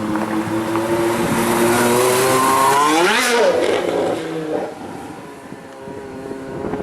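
Porsche Carrera GT's V10 with straight-piped exhaust accelerating, its pitch climbing to a sharp peak about three seconds in and then dropping steeply. The sound then fades before swelling slightly again near the end.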